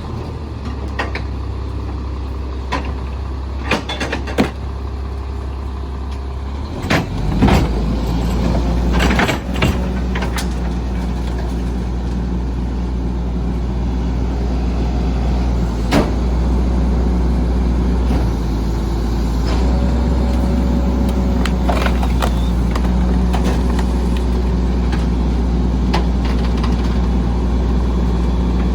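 Rear-loader garbage truck's diesel engine running steadily. About seven seconds in it speeds up and grows louder, with sharp clanks and knocks, and stays up for the rest of the time: typical of the truck's engine revving up to drive the packer.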